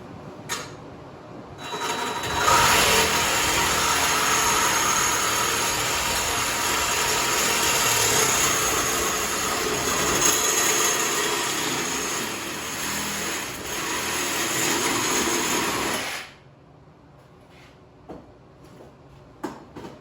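A power tool working metal runs steadily for about fourteen seconds, starting about two seconds in and stopping suddenly. A few small clicks and knocks follow it.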